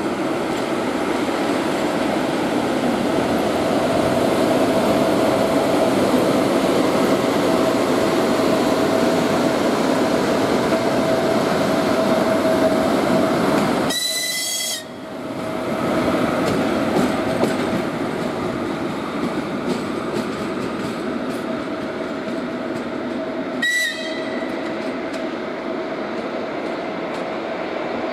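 Train running with a steady rumble and a constant humming tone. About halfway through, a short high-pitched horn blast sounds, and a second, shorter blast comes near the end.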